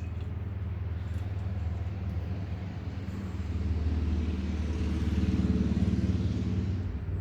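Motor vehicle engine running with a steady low rumble. It grows louder about halfway through and eases off near the end.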